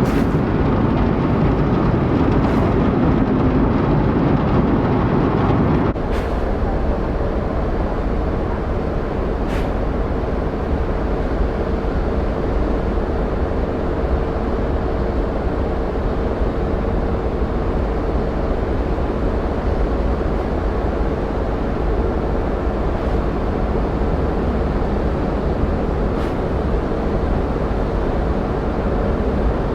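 Steady low engine rumble of a car ferry under way. About six seconds in it changes abruptly to a slightly quieter rumble carrying a steady hum.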